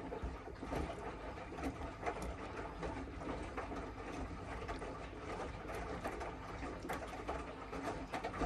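Miele W1 front-loading washing machine's drum turning during the wash, laundry and water tumbling with a clatter of small clicks. The drum starts abruptly, turns for about eight seconds and stops abruptly.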